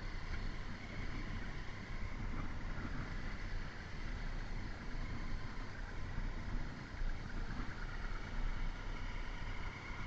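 Motorcycle engine running at a steady cruise during a ride, with road and wind noise on the microphone.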